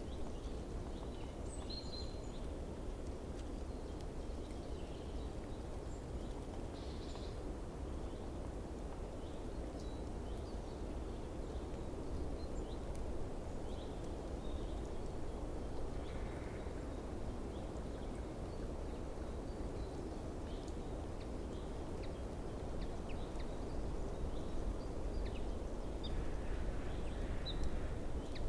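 Outdoor ambience: a steady low rumble with faint, scattered short bird chirps.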